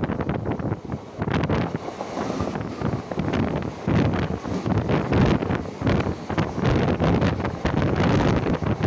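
Wind buffeting the microphone in irregular gusts over the steady running noise of the moving Anantapuri Express passenger train.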